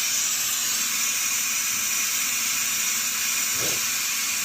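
Milky engine oil draining in a steady stream from a Cat 236D skid steer into a drain pan, heard as a constant even hiss. The milky oil is a sign of water in the oil.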